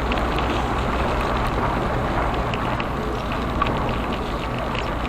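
Steady wind rumble on the microphone and the rolling noise of a bicycle in motion, with scattered small clicks and rattles.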